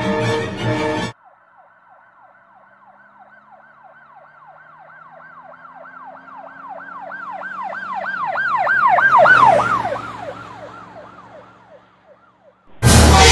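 Emergency vehicle siren in a fast yelp, several cycles a second, growing louder as it approaches, dropping in pitch as it passes and fading away, with a low vehicle engine drone beneath. Music cuts off about a second in and loud music comes back near the end.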